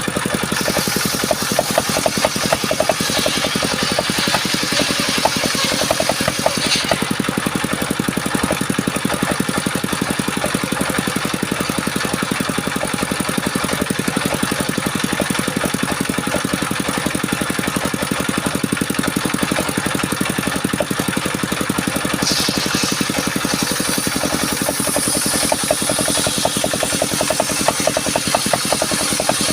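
The engine of a circular-saw wood-cutting machine running steadily, with a higher hiss coming in twice, from the start to about 7 seconds in and again for several seconds near the end.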